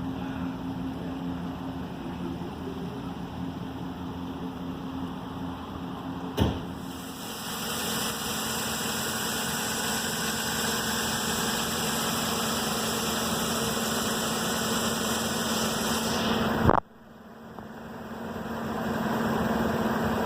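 2013 GMC Sierra 1500's V8 engine idling steadily. There are two sharp knocks, about a third of the way in and again near the end, with a hiss over the engine between them.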